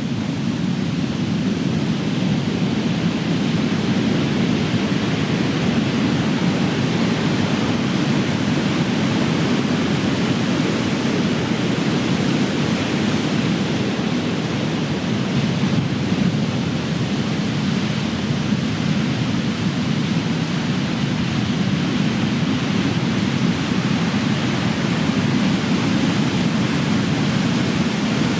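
Ocean surf: big waves breaking and washing in, a continuous dense rush of water that swells and eases slowly.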